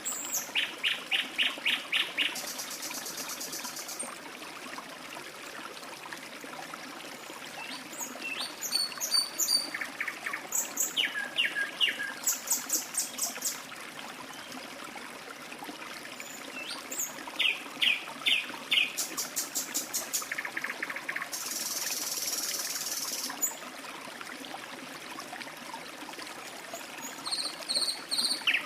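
Songbirds calling over a steady trickle of running water: repeated series of quick chirps and higher twittering notes, with a high buzzing note lasting about two seconds roughly three-quarters of the way through.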